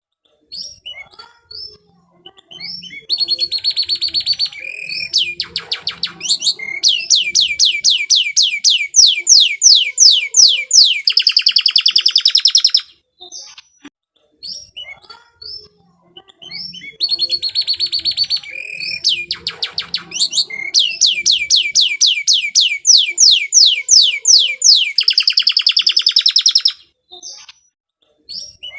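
Domestic canary singing loudly: short chirps, then long fast trills of rapidly repeated notes ending in a rolling buzz. The same long phrase plays twice with a short pause between.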